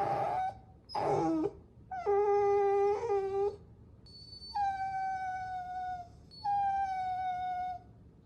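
Puppies whining: about five high, drawn-out whines in a row, the longer ones held for more than a second and sagging slightly in pitch at the end.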